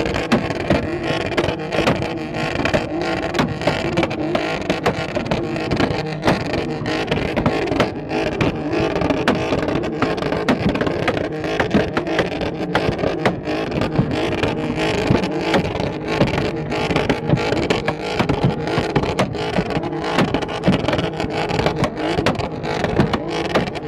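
Car exhaust popping and banging, a dense run of irregular sharp cracks over a running engine.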